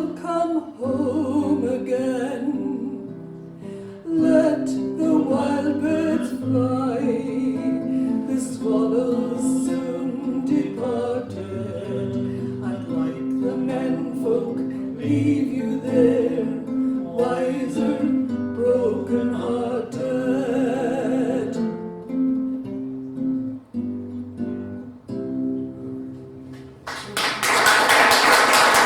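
A woman sings a folk song to acoustic guitar, the voice giving way to a few closing guitar notes as the song ends. About 27 seconds in, audience applause breaks out.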